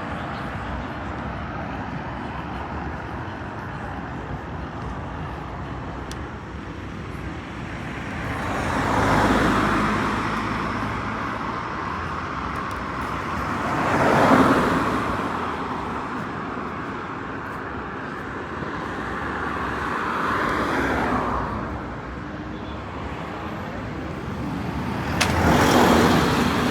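Road traffic: vehicles pass by one after another, each swelling up and fading away, about four passes over a steady background hum.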